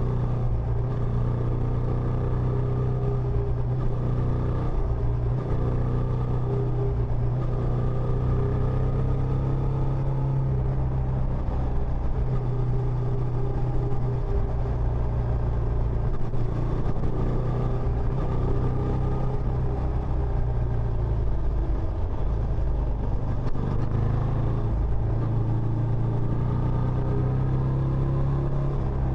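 Benelli Imperiale 400's single-cylinder engine running steadily through its stock exhaust: an even, low, unbroken note with no revving.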